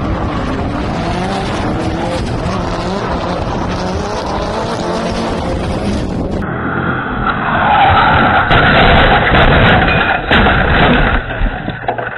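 Car engine running with its pitch wavering up and down. About six seconds in it gives way to loud tyre squealing and skidding, with a few sharp knocks.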